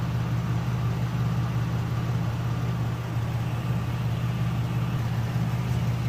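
Chevrolet Uplander's 3.9-litre V6 idling steadily, heard close up in the open engine bay.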